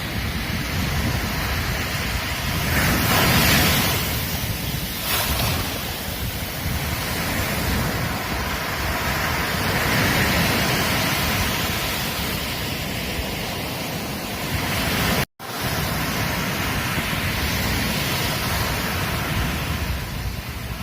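Ocean waves breaking and washing up a beach: a continuous rush of surf that swells louder about three seconds in and again around ten seconds. The sound cuts out for an instant about fifteen seconds in.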